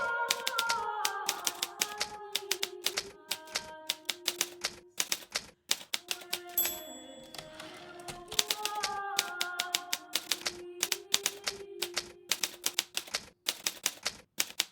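Hermes Baby portable typewriter typing at a rapid pace, key strikes clacking several times a second. The typing pauses briefly just after halfway, with a short high ring. Soft melodic background music plays underneath.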